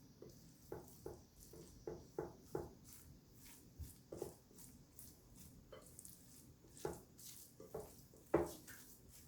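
Close-up eating sounds: an irregular series of short chewing and mouth sounds, with the loudest one about eight seconds in.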